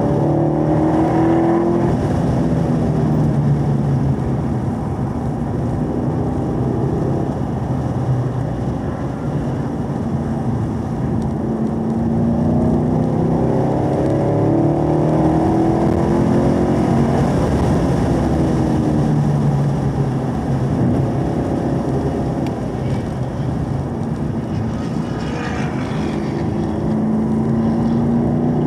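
2017 Chevrolet Camaro SS 1LE's V8 engine at track speed, heard from inside the car, its pitch rising under acceleration and falling off several times through the corners, over a steady rush of road noise.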